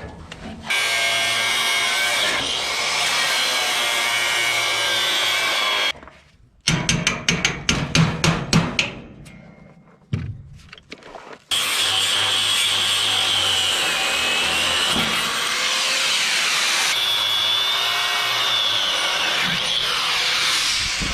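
A handheld power tool runs steadily for about five seconds and stops. A quick series of sharp knocks or scrapes follows, then the tool runs again, steady, for about ten seconds.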